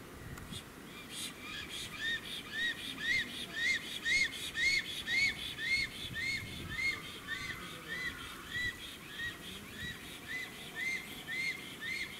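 A bird calling a steady series of short, rising-and-falling whistled notes, about two a second, beginning about two seconds in.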